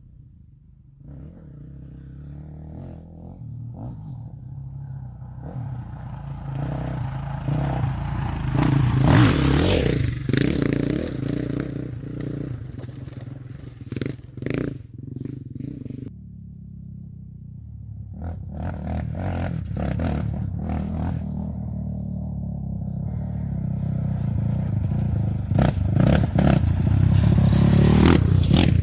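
Off-road trophy race trucks passing at speed on a dirt course. The first one's engine rises to its loudest about nine seconds in and fades away, and a second one builds up toward the end. Gravel and dirt clatter and scrape under the tyres as they pass.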